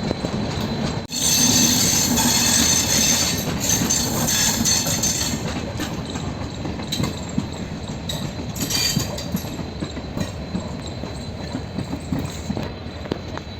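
Train running along the track: a steady rumble with scattered rail clatter, with a brief break about a second in followed by a louder, hissier stretch for a few seconds before settling back.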